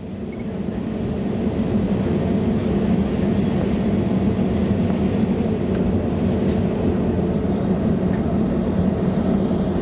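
Steady drone of an Airbus A320neo's engines, a constant low hum with a fainter hiss above, fading in over the first second or two.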